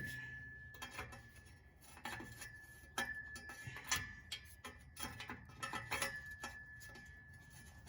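Irregular metal clicks and clinks, roughly one a second, of a socket and breaker bar being worked onto a seized exhaust bolt, over a faint steady high tone.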